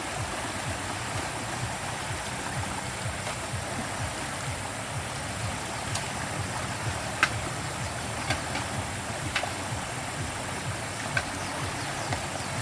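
Steady rush of flowing river water, with a few sharp clicks or knocks scattered through it, the loudest about seven seconds in.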